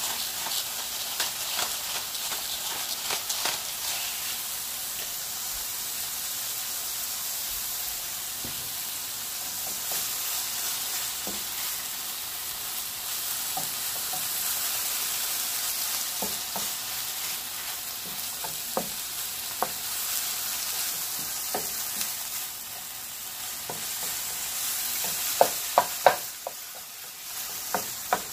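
Ground turkey and diced onion sizzling in a hot metal skillet while a wooden spoon stirs and breaks up the meat, with scattered scraping clicks. Near the end the spoon knocks sharply against the pan three times.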